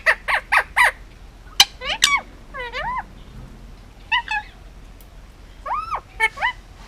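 Male Indian ringneck parakeet calling: a quick run of four short squawks, then further clusters of up-and-down chirping squawks separated by short pauses.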